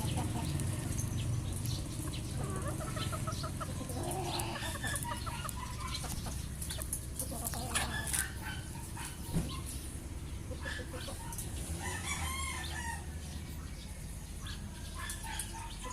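Bantam chickens clucking, with a rooster crowing about twelve seconds in, over a steady low hum.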